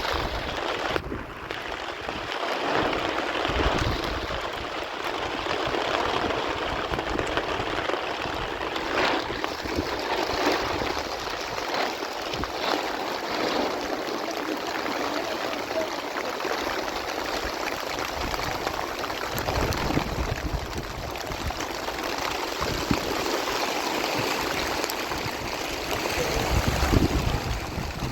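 Heavy rain falling with running water, a steady rushing hiss with scattered patters and occasional low thumps.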